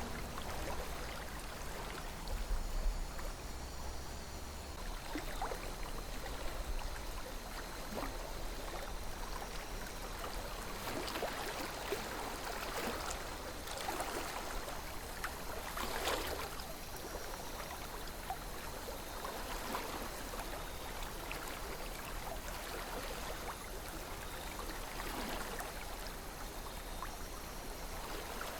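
River water flowing steadily over stones, with short louder splashes every few seconds.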